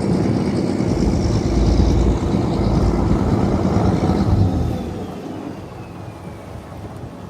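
Fishing boat's engine running with a heavy low drone, easing off and growing quieter about five seconds in.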